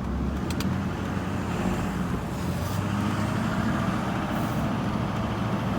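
Motor vehicle running, a steady low engine rumble with road noise.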